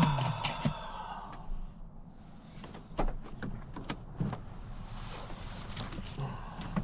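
A door or hatch squeaks open at the start, then scattered knocks and clunks as gear is handled.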